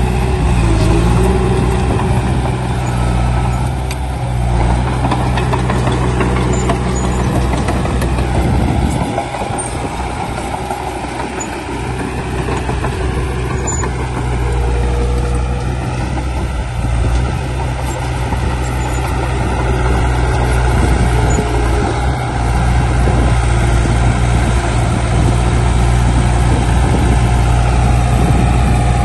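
Heavy diesel engine of a bulldozer or dump truck running steadily at work. Its low hum weakens for a few seconds about a third of the way in, then comes back up.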